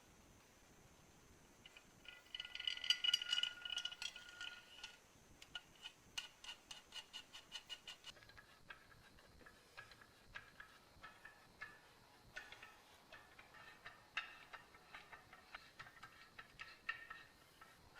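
Greased main screw thread of a BMW E30 emergency jack being twisted back into its housing by hand: a run of faint metallic ticks and clicks, at times about three a second, with a brief squeaky metal ringing about two seconds in.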